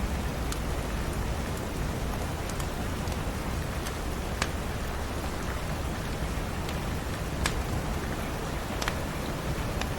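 Steady rain falling, with a deep rumbling undertone and a few scattered sharp pops, the clearest about halfway through and two more in the last few seconds.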